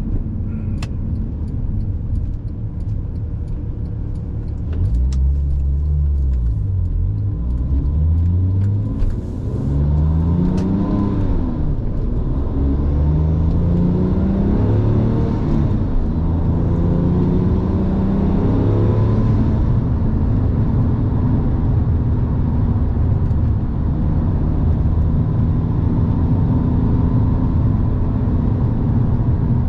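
2007 Porsche 911 Turbo's twin-turbo flat-six accelerating through the gears. The engine note rises and drops back with each of several upshifts, then settles into a steady cruise. A few light clicks come near the start.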